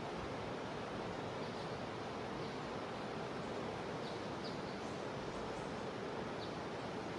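Jungle river flowing: a steady, even rush of water. A few faint, brief high chirps come through now and then.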